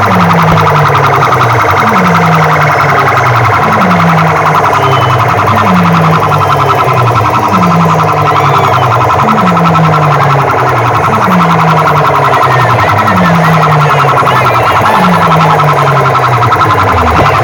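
DJ sound-system loudspeakers blasting a siren-like effect: a low falling tone repeating about once a second over a harsh, distorted buzz, played very loud.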